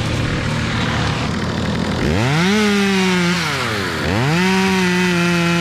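Two-stroke chainsaw idling, then revved up to full throttle twice. Each time it holds a steady high pitch for a second or two before dropping back.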